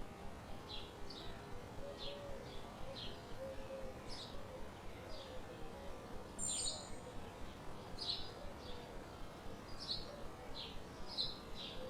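Small birds chirping: short, quick chirps repeating about twice a second, with a brighter, higher call about six seconds in. Faint wavering low tones run underneath.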